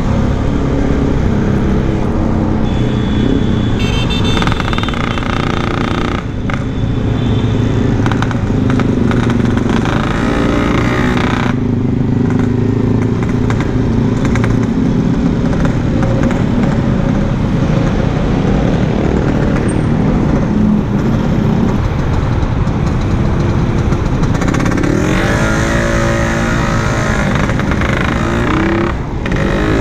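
Yamaha RX-King's 135 cc two-stroke single-cylinder engine running on the road with a standard-style exhaust, its pitch rising and falling as it is revved and shifted, including a climbing rev near the end.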